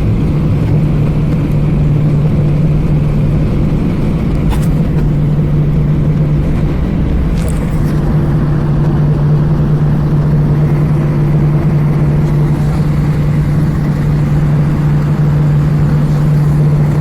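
Airbus A320 cabin noise on the ground before takeoff: the jet engines running at low thrust, a steady loud rumble with a constant low hum.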